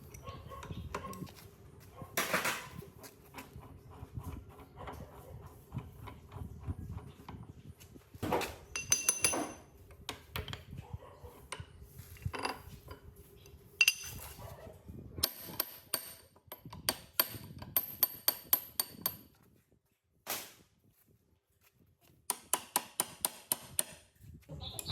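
Hammer knocks and metal parts clanking on a rusted blade grinder being worked on, some strikes ringing. Later come two runs of quick, evenly spaced hammer taps, with a short pause between them.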